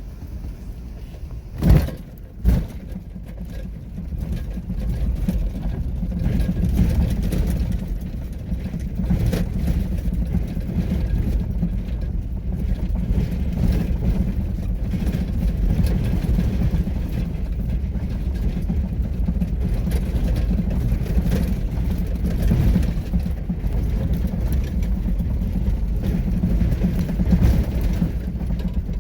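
A vehicle driving, a steady low rumble of engine and road noise that builds up about four seconds in. Just before that come two sharp thumps.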